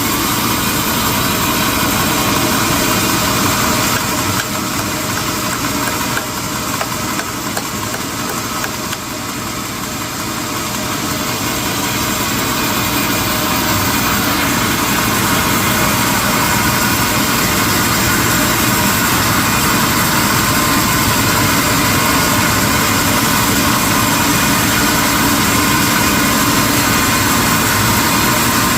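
Industrial sawmill machinery running with a loud, steady mechanical din, easing slightly about five seconds in and building back to a steady level by the middle.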